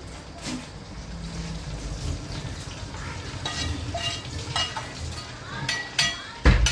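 Rodge cooking inside a closed pressure cooker, bubbling and sizzling hard. Several ringing metal clinks of cookware come in the second half, and a heavy knock comes near the end.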